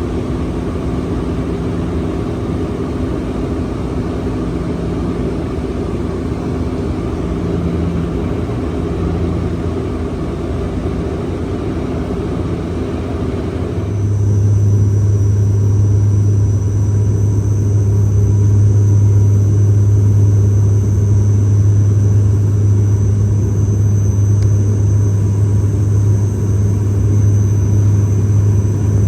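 Cabin noise of a Dash 8 Q400 turboprop in flight: a steady rumble of engine and air noise. About halfway through it switches abruptly to a louder, steady low propeller drone with a faint high whine above it.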